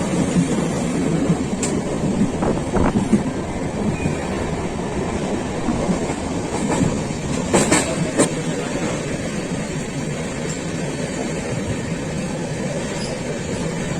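Moving train running on the rails: a steady rumble with wheel clatter, and a few sharp clanks about three and eight seconds in.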